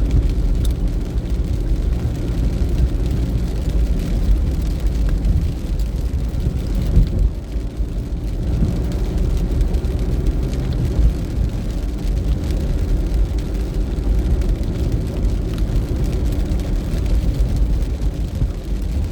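Steady low rumbling noise, even and unbroken, with no clear tones or strikes.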